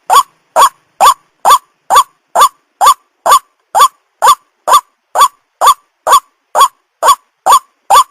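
White-breasted waterhen calling its monotonous repeated 'kwak' note, a little over two short rising notes a second in an unbroken series.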